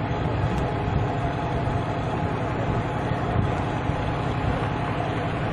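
An engine running steadily, a low rumble with a faint hum.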